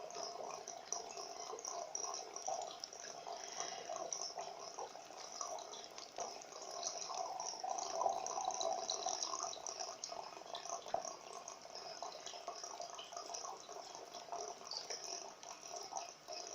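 Water running and trickling inside a bathroom wall: a continuous splashing flow with small irregular drips, heard through the wall like a small internal waterfall.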